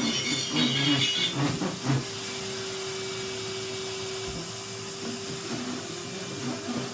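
Numatic Henry canister vacuum cleaner running steadily: a constant motor hum with an even hiss of airflow. Other, changing sounds lie over it for the first two seconds, then the vacuum runs on its own.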